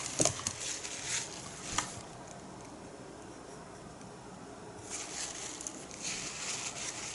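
Paintbrush being cleaned: faint swishes and light taps against its container, then a longer stretch of soft swishing or rubbing near the end.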